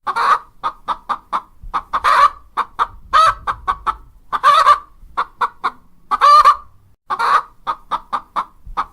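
Hen clucking: a run of quick short clucks broken every second or so by a longer, drawn-out call.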